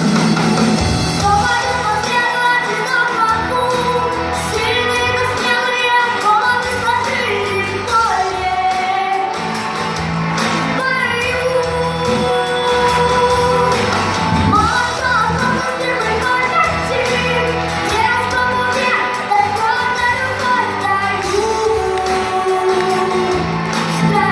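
A song: a singing voice over an accompanying backing track with sustained bass notes.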